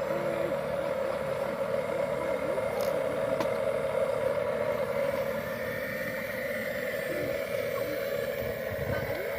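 Small electric motor of a radio-controlled toy vehicle running steadily with a constant whine.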